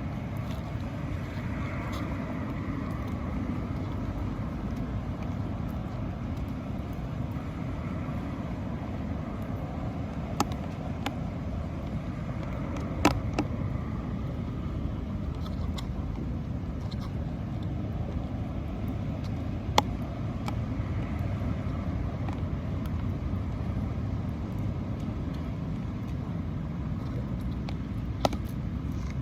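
Steady low rumble of outdoor background noise, with a few separate sharp clicks or knocks.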